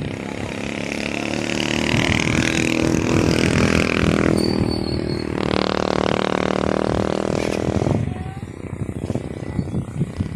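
A motor vehicle engine running steadily, growing louder over the first two seconds and stopping abruptly about eight seconds in.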